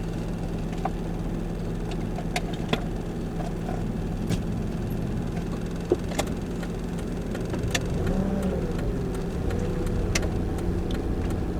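Car engine and road noise heard from inside the cabin while driving: a steady low hum, with scattered sharp clicks and knocks.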